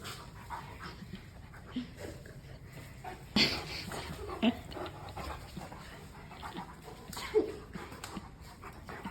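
Mastiff puppy making scattered short whines and yelps during rough play. There is a sudden louder noisy burst a little over three seconds in and a short falling cry about seven seconds in.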